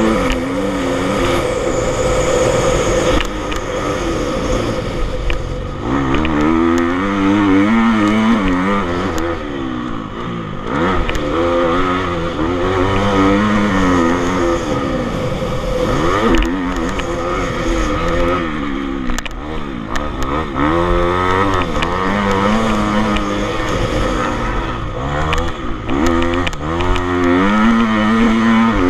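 Several motocross bikes riding, their engines revving up and dropping back again and again, with more than one engine heard at once.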